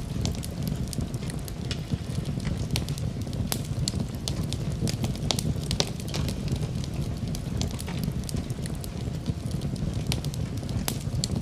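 Wood fire burning in a fireplace, a steady low rumble of flames with frequent irregular sharp crackles and pops.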